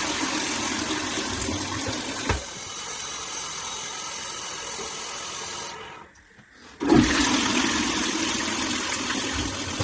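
Toilet flushing with a rush of water, a knock about two seconds in, then the flush is pulled again about seven seconds in after a brief lull. The toilet is being flushed repeatedly to test a newly fitted drain.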